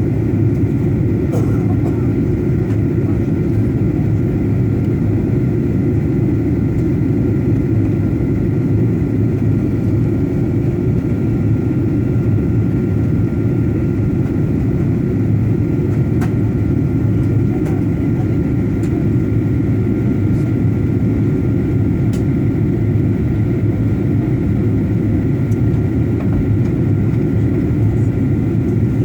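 Steady airliner cabin noise: a constant low rumble of jet engines and airflow, with two faint steady high tones running through it and a few light clicks.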